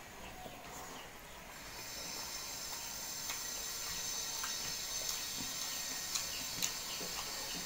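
A person eating: soft wet chewing and mouth clicks, scattered sharp smacks over a steady hiss that grows louder about two seconds in.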